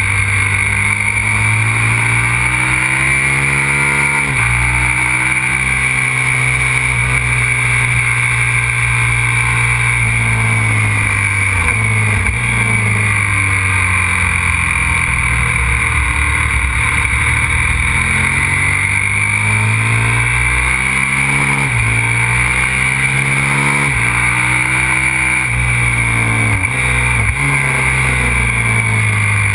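Aprilia RXV 550 supermoto's V-twin engine running hard on track, its pitch climbing and falling repeatedly as it accelerates, shifts and brakes, with sudden drops in pitch at gear changes.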